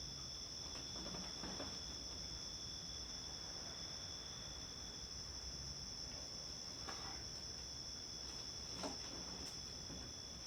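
Steady, high-pitched, continuous chorus of night insects on a summer night, with a few faint soft knocks.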